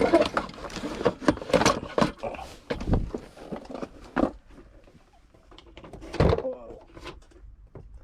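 Cardboard boxes being handled and shifted on a storage shelf: irregular knocks, scrapes and rustling, with one loud thump about six seconds in.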